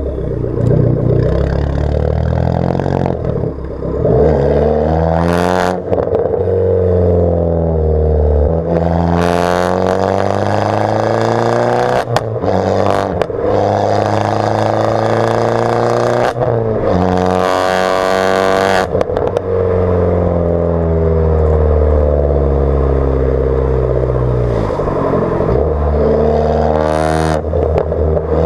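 Abarth 500's 1.4 turbo four-cylinder through a decatted, straight-piped Bombardone exhaust, accelerating through the gears: the pitch climbs and drops sharply at each change, about four times. It then holds steady for a few seconds and climbs again near the end.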